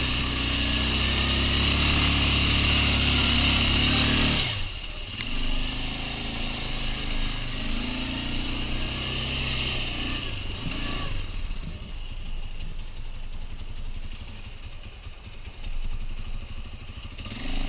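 Quad bike (ATV) engine running hard at steady high revs, then dropping off abruptly about four and a half seconds in. It carries on more quietly with revs rising and falling, and settles lower near the end.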